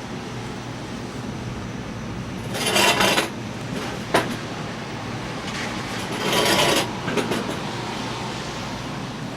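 Steady rain hiss, with two brief louder hissing swishes, one a little under a third of the way in and one past the middle, and a single sharp click between them.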